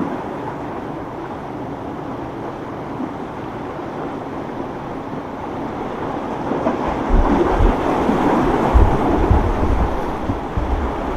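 Wind gusting on the microphone over a steady rush of surf and boat motors, with the low rumble of the wind turning gusty about seven seconds in.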